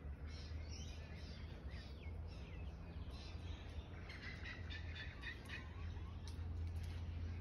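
Small birds chirping and calling, with a thicker run of quick repeated chirps about midway, over a steady low rumble.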